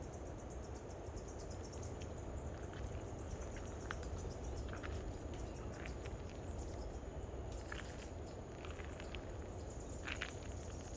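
Tropical forest ambience: a steady high-pitched insect buzz with rapid ticking above it, and scattered short chirps from birds.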